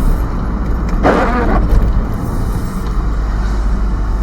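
Road and engine noise inside a moving vehicle: a steady low rumble, with a brief louder sound about a second in.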